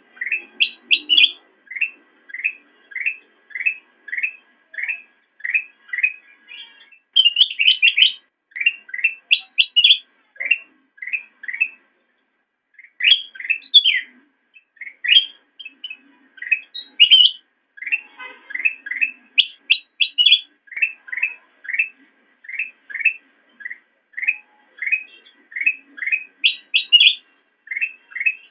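Kutilang emas, a bulbul, singing: a steady run of short chirped notes about two a second, broken every few seconds by louder, higher phrases.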